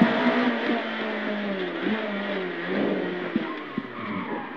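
Renault Clio Williams rally car's four-cylinder engine heard from inside the cabin, running at fairly steady revs with no hard acceleration; its pitch dips briefly and recovers about halfway through, with a few light knocks from the car.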